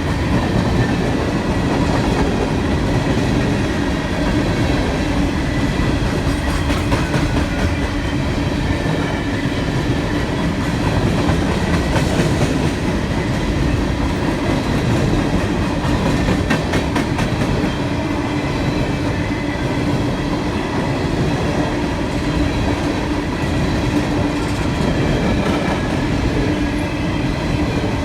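Loaded CSX coal train rolling steadily past: continuous wheel-on-rail rumble with scattered clicks from the wheels.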